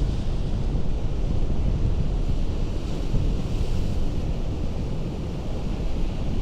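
Ocean surf breaking against rocks, a continuous wash of water that swells slightly about halfway through, with a low rumble of wind on the microphone.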